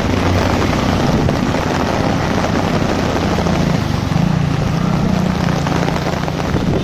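Heavy rain pattering on an umbrella, with a motor engine running low underneath; the engine's pitch steps up about four seconds in.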